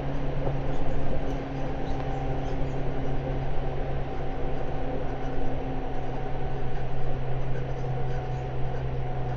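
Seibu 10000 series train running, heard from inside the passenger cabin: a steady rumble of wheels on the rails under a low, steady hum.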